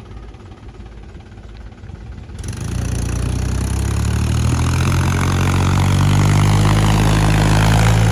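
Heavy diesel engine of farm machinery running low at first. From about two and a half seconds in it works harder and louder, its pitch rising slowly, then it cuts off suddenly.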